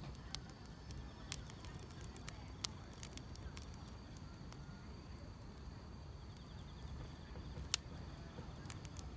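Wood fire crackling, with irregular sharp pops, the loudest about three quarters of the way through, over a low steady rumble of the burning logs. Grass insects chirr steadily in the background.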